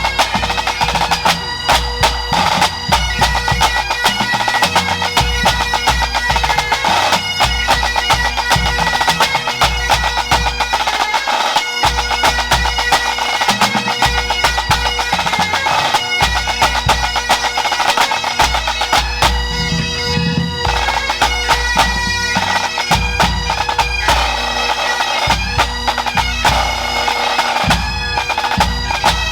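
Pipe band playing: Highland bagpipes sound a tune over their steady drones, with snare drums rattling and a bass drum beating time underneath.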